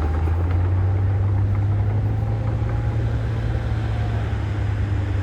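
Heavy diesel engine of earthmoving equipment running steadily: a deep, even drone with a faint high whine over it.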